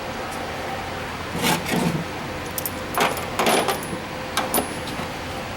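Light metallic clinking and rattling in three short clusters, as small metal parts or tools are handled and set down, over a steady workshop hum.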